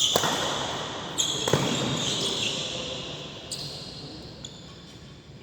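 Badminton play in an indoor hall: sharp racket strikes on the shuttlecock at the start and twice about a second and a half in, with high squeaks of shoes on the court floor. The background noise fades toward the end.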